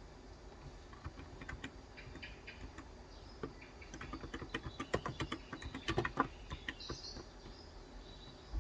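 Typing on a COX Endeavour tenkeyless keyboard with 35 g capacitive switches, giving soft, irregular keystrokes. They start about a second in and come fastest around the middle, with a quick run of strokes.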